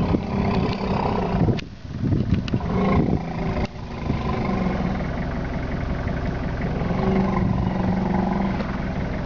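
Vehicle engine idling steadily, held at a standstill.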